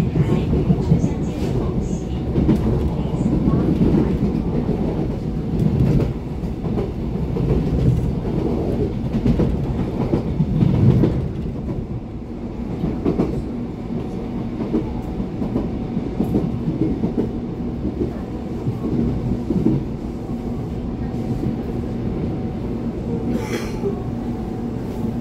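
Inside an EMU700-series electric commuter train (EMU736+EMU735) running through a station yard, the wheels clattering over rail joints and switches. The clatter eases about halfway through into a steadier rumble as the train slows to draw into the station.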